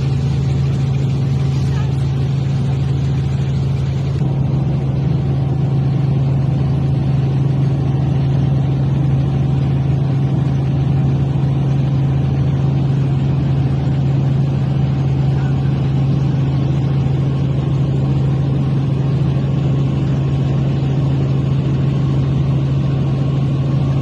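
Helicopter noise heard from inside the aircraft: engines and rotor running steadily, a loud, constant low hum with a fainter higher tone above it.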